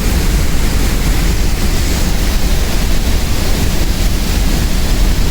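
Steady roar of a large waterfall, with wind rumbling on the microphone.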